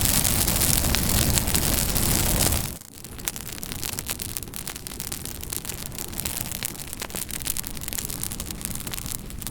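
Campfire burning: a loud, dense hiss of flames for almost three seconds, then a sudden drop to a quieter fire full of sharp crackles and pops from the burning wood.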